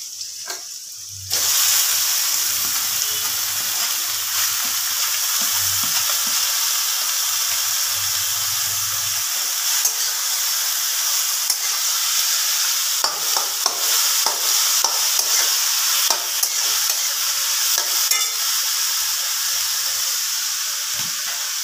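Blanched Malabar spinach (pui shak) with potato and pumpkin pieces dropped into hot oil in a kadai, sizzling loudly from about a second in. From about halfway on, a metal spatula scrapes and clicks against the pan as the greens are stirred.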